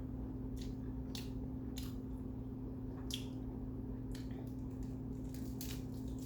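Close-up wet chewing of a mouthful of salmon kimbap, with scattered soft mouth smacks and clicks over a steady background hum.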